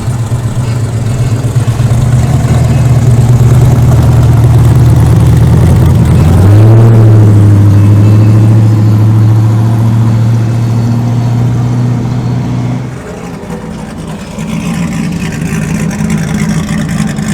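Car engine running loud and steady, revving up about six seconds in, holding higher revs, then easing off near thirteen seconds.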